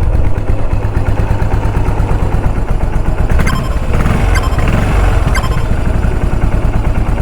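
Yamaha SR400's air-cooled single-cylinder engine running through an aftermarket Beams muffler, with an even low thump. About halfway through it is revved up twice, with a few sharp cracks.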